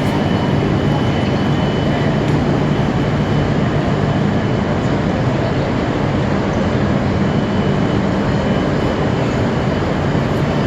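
Shinkansen train at the platform, giving a steady rumble with a low hum and a faint high whine that hold level throughout.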